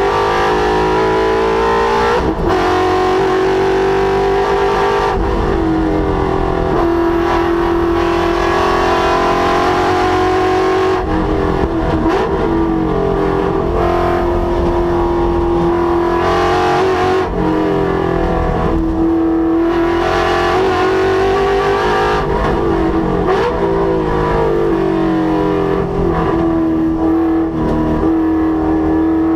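Ford Coyote 5.0 L V8 in a Mustang being driven hard on a race track. The engine note climbs under full throttle and falls away under braking and downshifts, over and over.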